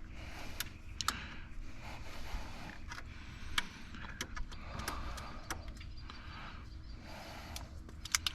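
Scattered metallic clicks and taps of hand tools working a part loose on an engine, over a steady low background rumble.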